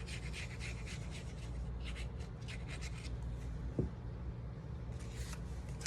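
Card stock being handled on a tabletop: paper rustling and sliding in quick short scrapes, busy for the first three seconds and again briefly near the end, over a steady low hum.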